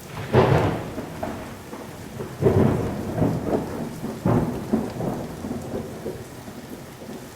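Thunderstorm: a steady hiss of rain with rumbles of thunder, three louder swells about two seconds apart, cutting off abruptly at the end.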